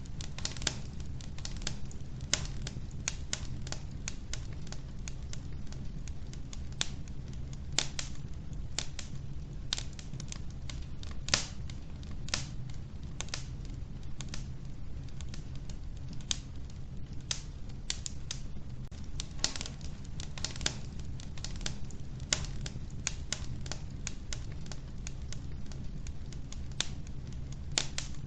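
Wood fire burning in an old wood-burning stove, crackling with irregular sharp pops and snaps over a steady low rumble; the loudest snap comes about a third of the way through.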